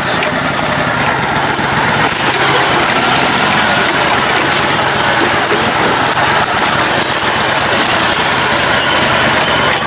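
Engine of a lifted riding lawn tractor running steadily as it is driven along a trail.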